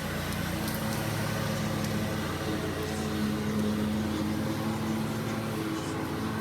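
Lawn mower engine running steadily, a low hum whose pitch wavers a little.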